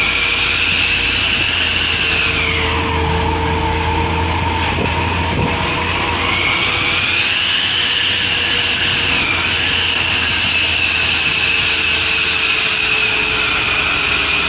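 Truck running with a SuozZ whistling aftermarket exhaust: a high whistle over the low engine rumble that drops in pitch about two seconds in, climbs back about six seconds in, then holds steady.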